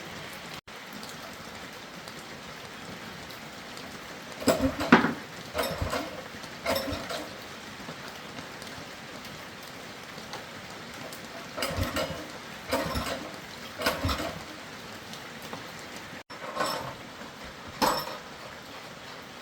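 Metal tools and engine parts clinking and knocking in several short bursts of clatter over a steady background hiss.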